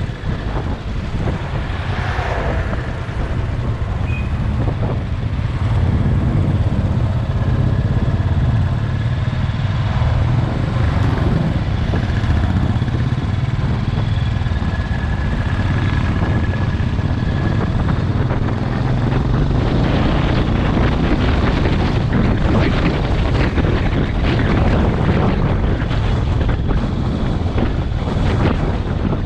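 Motorcycle engine running while riding, a steady low rumble with wind buffeting the microphone.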